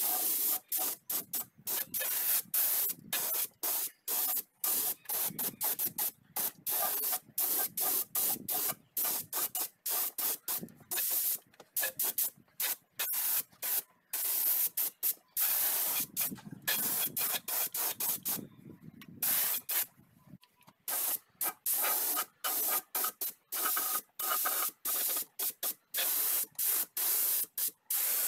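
Paint being sprayed in many short hissing bursts that start and stop abruptly.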